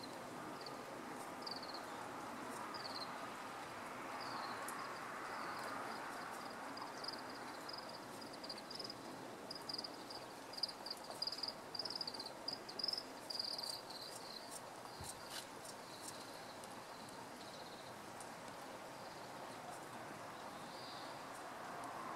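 A run of short, high chirps, spaced out at first, then quickening into a fast chattering series about halfway through before thinning out, with a few sharp clicks among them, over steady outdoor background noise.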